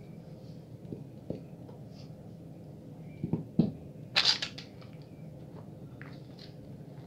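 Bar soap being lathered in wet hands: soft wet squishes and taps, with a louder squelch a little past the middle.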